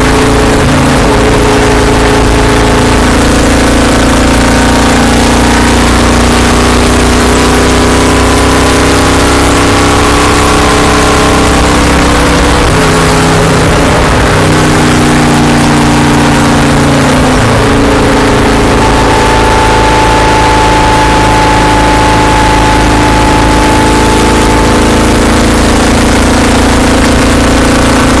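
Stock car's V8 engine running hard at steady high revs, heard loud from inside the cockpit. The pitch shifts for a few seconds around the middle, as the throttle changes through a turn.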